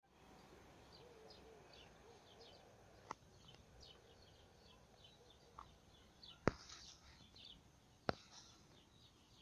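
Faint chirping of small birds, many short, quick calls repeating throughout, with three sharp clicks a third, two thirds and most of the way in, the middle one loudest.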